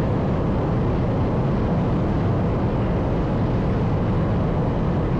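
Steady low rumble of city street traffic, even throughout with no single vehicle standing out.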